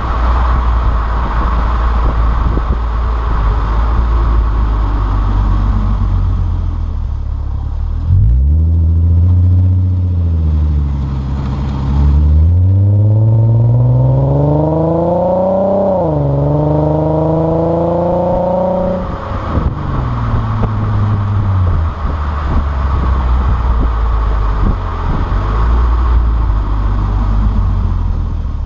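Infiniti Q50S with a Stillen cat-back exhaust, cruising with a steady low drone and road noise before the throttle is opened about eight seconds in. The exhaust note climbs in pitch, drops at an upshift, climbs again, then falls away as the throttle is lifted, and the car settles back to a steady cruise.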